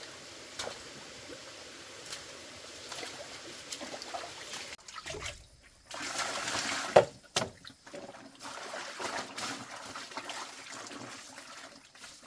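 Water trickling and splashing, with scattered small knocks and a louder spell of splashing about six to seven seconds in.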